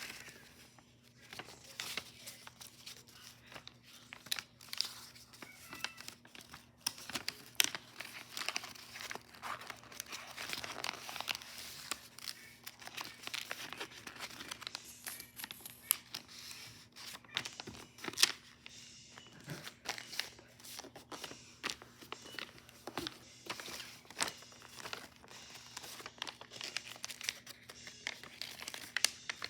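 A sheet of paper being folded and creased by hand: irregular crinkling and rustling with many sharp little snaps as folds are pressed flat. A faint steady electrical hum sits underneath.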